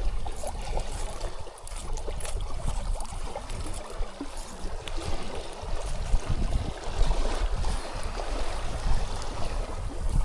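Steady rushing of stream water, with a low uneven rumble underneath and a few scattered clicks.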